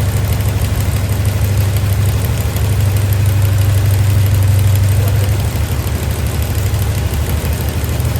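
Chrysler 440 big-block V8 with a Comp Cams Thump'r hydraulic roller camshaft running steadily on an engine run stand during its first run-in, a low engine drone that grows a little louder midway.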